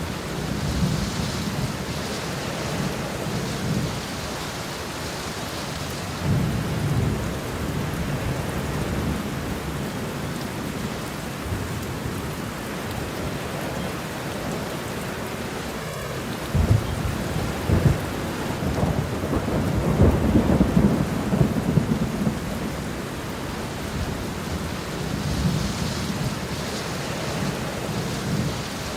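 Steady rain with thunder rumbling low and rolling in several waves. The loudest, longest rumble comes a little past halfway through.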